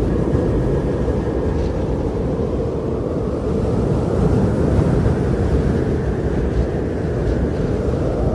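Strong blizzard wind blowing steadily, a deep low rush with gusts rising and falling.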